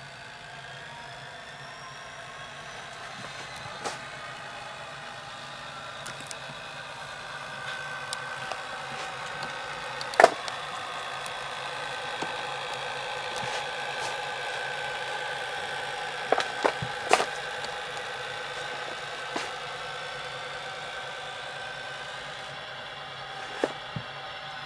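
Tsunami sound decoder in an HO scale SD45-2 model locomotive playing its diesel engine sound through the model's small speaker, slowly building in loudness as it runs. Several sharp clicks stand out, the loudest about ten seconds in and a cluster about sixteen seconds in.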